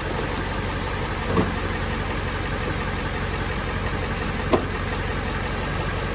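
Ford F-350 diesel engine idling steadily after fresh batteries got it started, with two brief knocks from tools being thrown down, the sharper one about four and a half seconds in.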